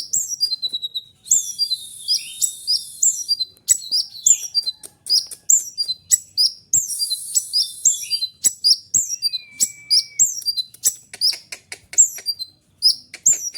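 A konin (kolibri ninja), a small sunbird, singing in a fast, dense stream of high-pitched chirps with sharply falling notes. Two stretches of rapid buzzing trill come in, one about a second in and another around the middle.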